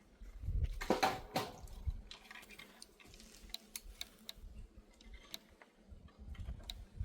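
Irregular light clicks and taps, with a louder cluster of knocks and rustling about a second in.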